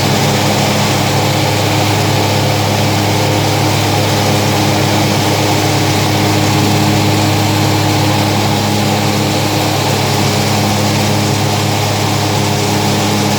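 Gravely ProTurn Z 60-inch zero-turn mower running steadily, with the rattle and vibration that the owner gets whenever the PTO is engaged and the deck belt shakes hard. The dealer found nothing wrong, only more vibration than in other units.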